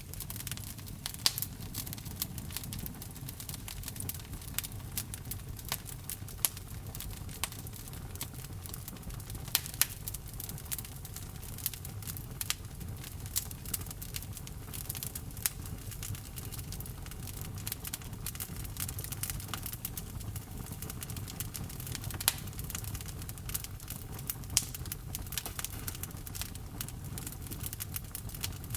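Burning wood crackling in a fireplace: irregular sharp pops and snaps over a low, steady rumble of the flames.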